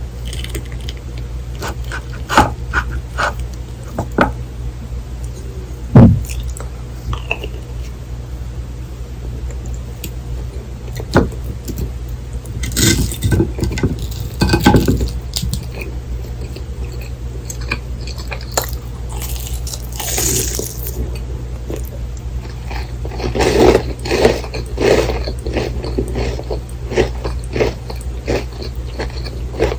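Close-miked eating sounds: utensils tapping and scraping on dishes, and crunchy bites and chewing of a crisp fried breaded pork cutlet. There is a sharp knock about six seconds in, and busier stretches of crunching near the middle and after twenty seconds.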